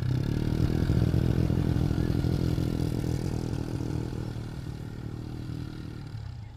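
A motorbike engine running, loudest about a second in, then fading steadily as it moves away.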